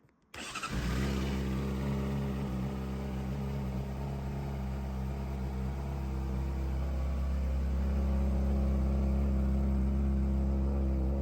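Honda CBR600RR's 599cc inline-four engine starting up just after the beginning and settling straight into a steady idle.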